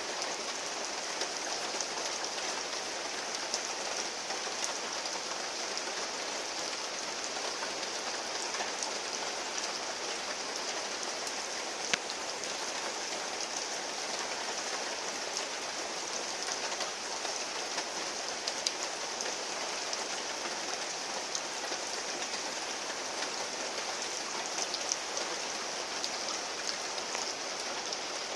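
Heavy rain falling steadily, with scattered sharper drop hits, one louder than the rest about twelve seconds in.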